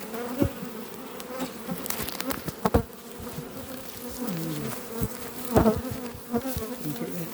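Many honeybees buzzing steadily around an opened hive, with single bees passing close in rising and falling glides. A few short, sharp knocks sound through the buzz.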